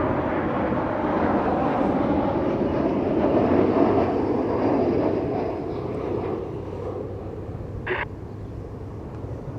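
Jet airliner's engines, a steady roar that swells a few seconds in and then fades as the aircraft moves away. There is a short blip about eight seconds in.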